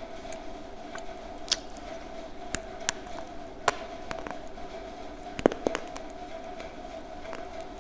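Close-miked chewing of a homemade slate-pencil lollipop: a string of sharp, dry crunches about once a second, the loudest pair about five and a half seconds in, over a steady hum.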